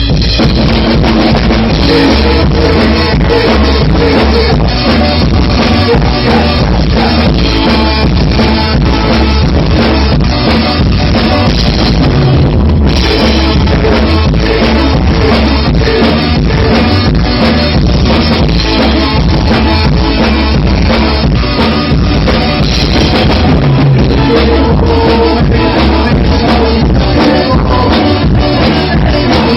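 Ska band playing loud, with a driving drum kit beat, bass and some singing.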